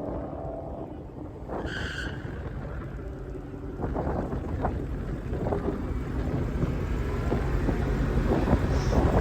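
Dodge Demon's supercharged 6.2-litre Hemi V8 rumbling at low speed at the drag strip, growing louder over the second half, with wind buffeting the microphone. A short high tone sounds about two seconds in.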